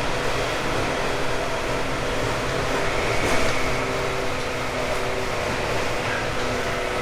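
Interior running sound of a 189-series electric train's motor car at speed: a steady rumble of wheels on rail with a steady hum from its MT54 traction motors, swelling slightly about three seconds in.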